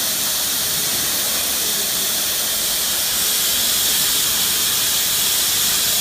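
Steady hiss of a CNC cutting torch cutting metal plate.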